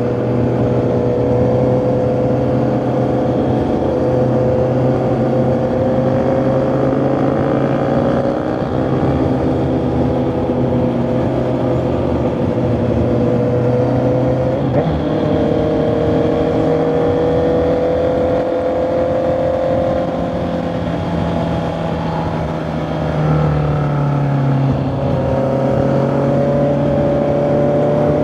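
Honda CB650R's inline-four engine and exhaust while riding, the engine note holding fairly steady with slow rises and falls. The pitch drops about halfway through, and near the end it eases off briefly, then picks up again.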